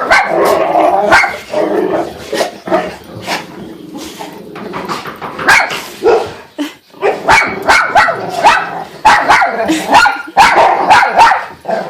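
Dog barking repeatedly in loud runs, quieter for a few seconds near the middle, then barking rapidly again.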